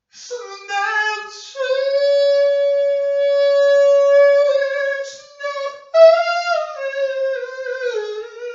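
A single high voice singing unaccompanied: a short opening phrase, then a long held note, then after a breath a slowly falling melodic line.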